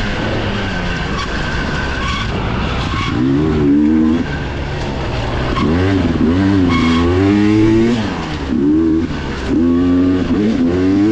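Dirt bike engine on the throttle, its revs climbing and falling several times as the rider accelerates and backs off, with marked drops about four and eight seconds in.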